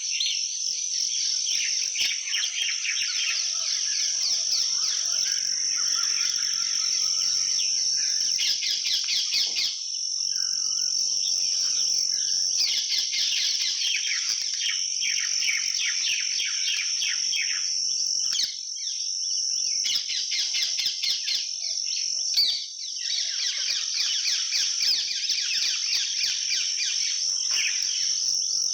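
Steady, high-pitched outdoor insect drone with dense, rapid chirping layered over it, briefly dipping a few times.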